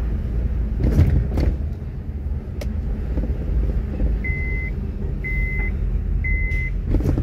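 Honda Accord 3-litre V6 running at low speed in a concrete car park, heard from inside the car as a steady low rumble with a few sharp knocks. From about four seconds in, an electronic beep sounds about once a second, each beep about half a second long.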